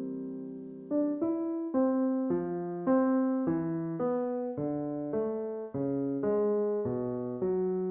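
Background piano music: a slow run of single notes and chords, each struck and left to fade.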